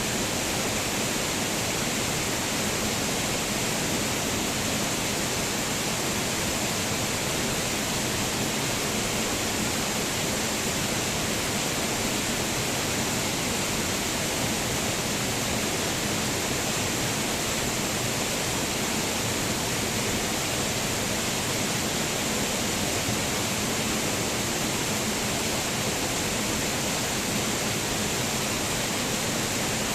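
Waterfall: water pouring and splashing in a steady, unbroken rush, with most of its energy in the hiss.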